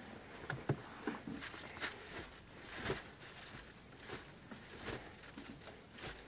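Faint, irregular clicks and soft knocks from the gear lever of a five-speed manual transmission being moved through its gear positions.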